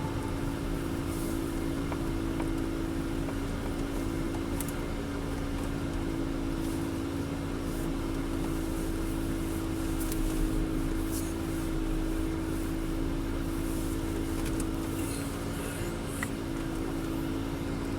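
Car driving at an even pace: a steady engine hum over low road noise, with a few faint clicks.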